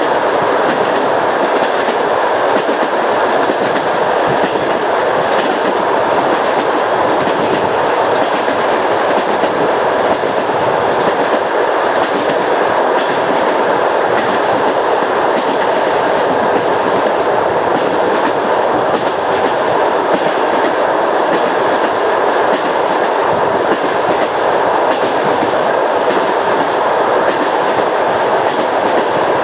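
Train wheels running over jointed rails: a steady rolling rumble with the clickety-clack of the wheels striking the rail joints.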